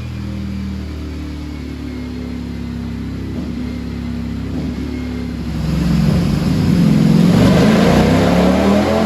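Ducati Streetfighter V4's V4 engine breathing through a full titanium Akrapovic race exhaust on a chassis dyno, running steadily at low revs. About five and a half seconds in, the throttle opens, the revs climb and it gets much louder.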